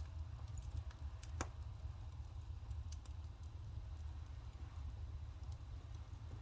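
Burning firewood crackling, with scattered sharp pops, one louder than the rest about a second and a half in, over a steady low rumble.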